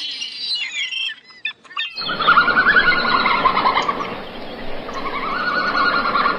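Small bird chirping in quick high notes. About two seconds in it cuts abruptly to a louder, noisier recording that holds two long animal calls.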